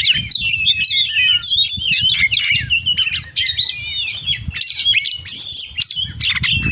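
Oriental magpie-robin singing a fast, unbroken song of varied whistles, chirps and trills, full of mimicked calls of other birds, with one harsh buzzy note about five seconds in.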